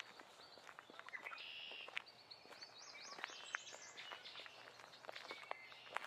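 Songbirds singing in a forest, with a fast run of up-and-down notes in the middle, over scattered light footsteps on the forest floor.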